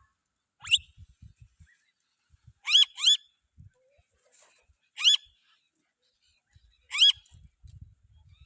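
A bird calling: five short rising calls, spaced about two seconds apart, with the second and third coming as a quick pair.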